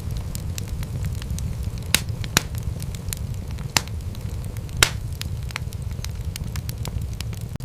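Wood fire crackling in a fireplace: a steady low rumble of flames under many small crackles, with a few louder pops, the loudest nearly five seconds in.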